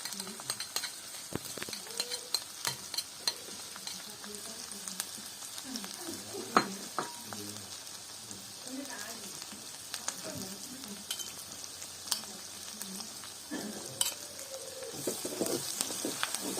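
Chili frying in hot oil, sizzling steadily while it is stirred, with frequent clicks and scrapes of the stirring utensil against the cookware and a sharper knock about halfway through.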